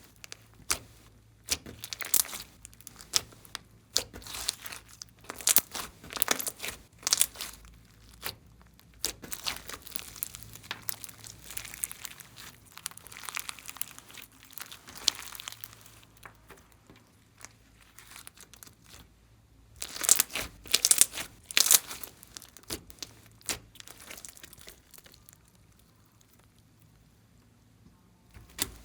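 Glossy slime being squished and stretched by hand, giving irregular sticky crackles and pops. A louder spell of crackling comes about twenty seconds in, then it goes quieter near the end.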